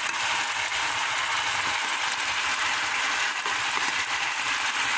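Marinated chicken pieces frying in hot oil in a pan: a steady sizzle with fine crackling.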